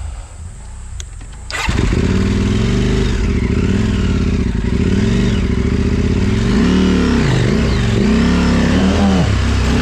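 Off-road motorcycle engine that comes in loud about a second and a half in and is then revved up and down repeatedly.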